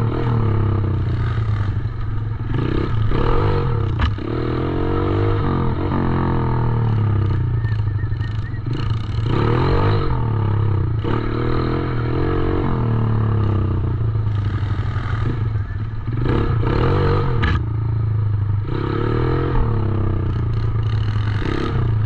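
Small 110cc dirt bike engine being ridden hard, revving up and falling back again and again, with a rising whine every couple of seconds.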